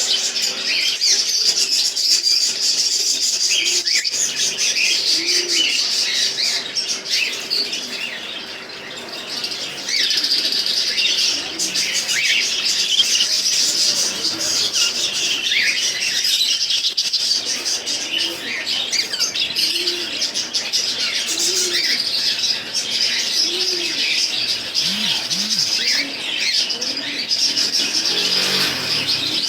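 A flock of small pet birds chirping and twittering non-stop, many calls overlapping, with wing flapping among them. A few low, short calls come through now and then.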